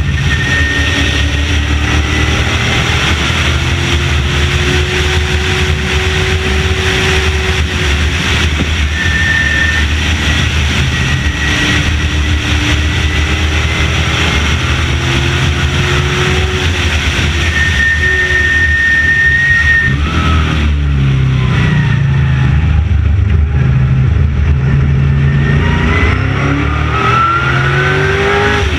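Late model stock car's V8 engine running at racing speed, its pitch rising and falling with the throttle. The engine drops to a lower pitch about two-thirds of the way through, then climbs steadily again near the end.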